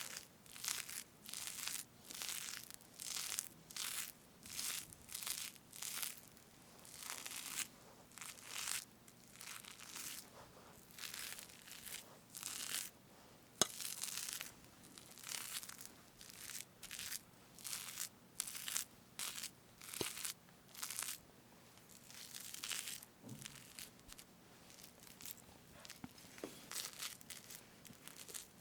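Whipped fresh cream on a strawberry cake being parted and scooped with a utensil close to the microphone, giving a run of soft, wet, tearing strokes at about one to two a second. There are two small sharp clicks along the way.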